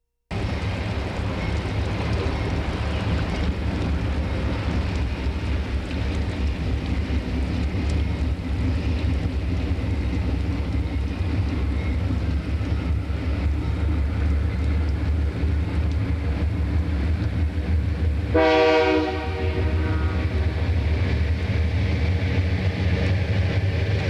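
Diesel freight locomotives running with a steady low engine drone. About three-quarters of the way in comes one short horn blast.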